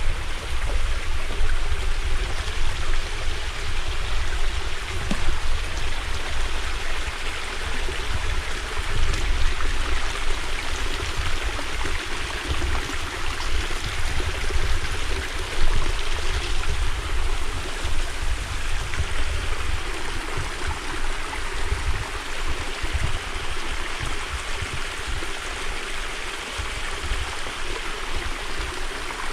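Water of a small stream running and trickling over stones in a steady, even rush, with a low, uneven rumble underneath.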